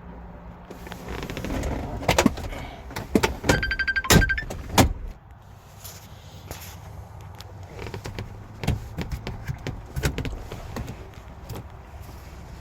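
Handling noises around a pickup truck's cab: a cluster of clicks and thunks between about two and five seconds in, with a short rapid electronic beeping chime in the middle of them, then quieter scattered knocks and rustling.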